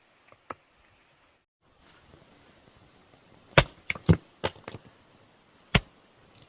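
Sharp knocks on wood, about six irregular strikes over two and a half seconds starting around three and a half seconds in, after a few faint taps.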